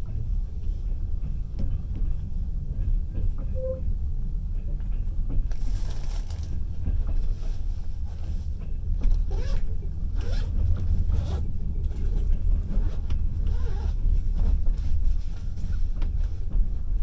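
Passenger train running, heard from inside the carriage at the window: a steady low rumble of wheels on the rails, with scattered rattles and knocks.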